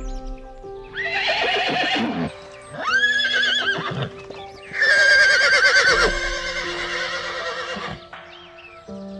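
Horse whinnying three times, each call quavering, the third the longest and loudest, over soft background music.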